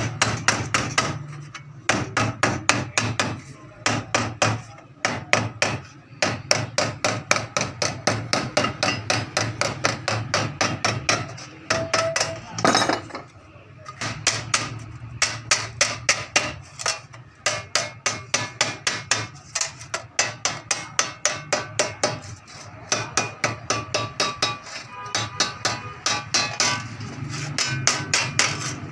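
Hammer blows on a thin 26-gauge sheet-metal strip as it is folded over into a flange, in quick runs of several strikes a second with short pauses between runs.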